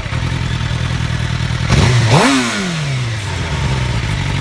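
Suzuki GSX-R 750 inline-four sport bike engine idling, fitted with an aftermarket Yoshimura carbon-fibre exhaust. About two seconds in it is blipped once: the revs shoot up quickly, then sink back slowly to a steady idle.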